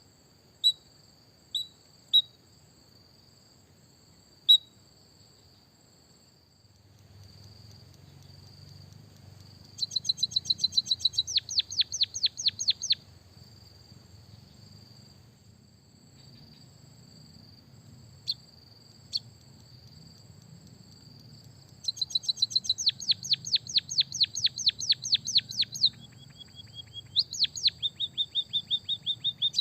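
White-headed munia (emprit kaji) singing canary-style rolling trills: a few sharp single chirps at first, then two runs of fast repeated notes, the longer one about 22 seconds in, and a lower-pitched trill near the end. A steady high-pitched insect-like whine runs underneath.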